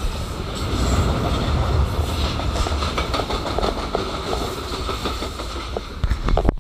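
Freight train wagons rolling past at speed: a steady heavy rumble of wheels with clickety-clack over the rail joints and a steady high ringing above it. A few sharp knocks near the end.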